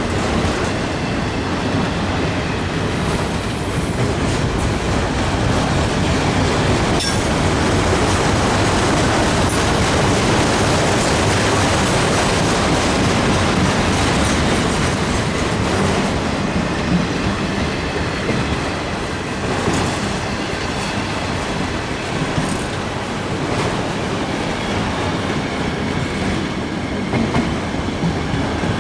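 Heavy freight train rolling past up a grade: a continuous rumble of railcars with clickety-clack from the wheels on the rail joints and faint wheel squeal.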